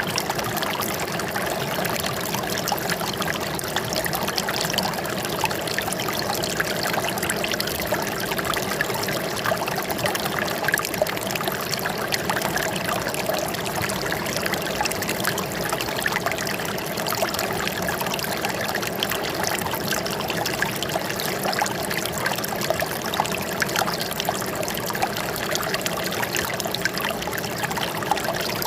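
Water flowing and trickling steadily, a continuous rush dotted with many small splashes.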